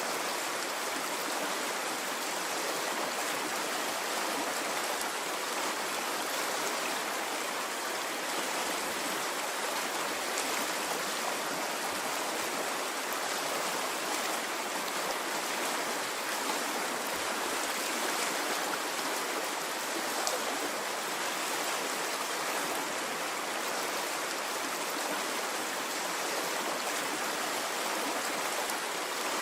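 Stream of water flowing steadily, an even rushing sound with no rise and fall.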